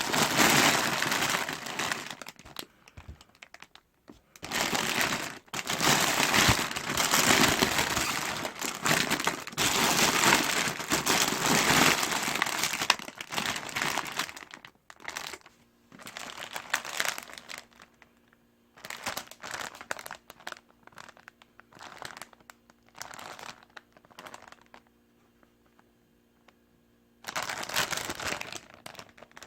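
Plastic instant-ramyun packaging crinkling and rustling as it is handled, in long dense stretches with a sparser, quieter spell in the middle.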